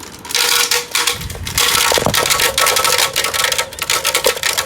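Loud, rapid clattering of objects rattling and knocking inside a running air conditioner, over a faint steady hum.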